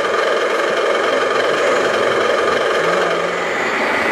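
A motor running steadily and unbroken at an even level, with a dense mid-pitched hum.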